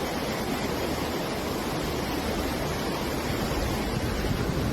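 Fast-flowing floodwater rushing, a steady, even noise with no let-up.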